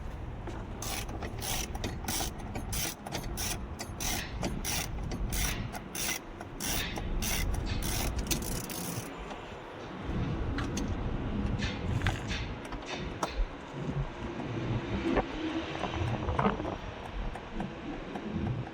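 Hand ratchet wrench clicking in quick regular strokes, about three a second, for roughly the first half, then scattered clicks and knocks of metal tools and parts.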